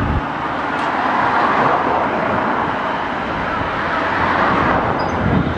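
CRH1A electric multiple unit passing at speed: a steady rush of wheels on rails that swells twice as it goes by. There is a brief low rumble near the end.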